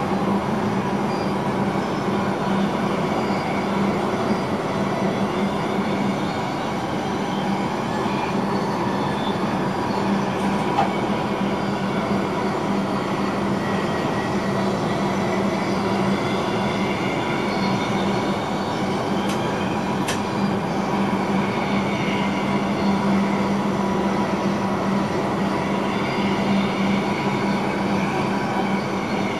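An electric NS intercity train running at speed, heard from inside the driver's cab: steady rolling and running noise with a constant low hum.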